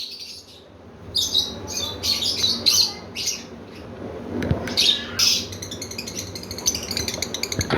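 Pet lovebird squawking while being tickled: a run of harsh, high squawks, then a fast chattering from about the middle onward.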